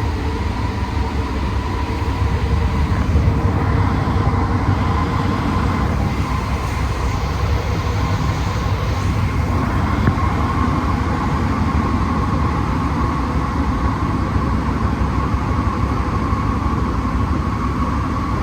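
Cabin noise inside a Santiago Metro Alstom NS-16 rubber-tyred train running between stations. There is a steady low rumble, and over it a high whine that rises slightly in pitch over the second half.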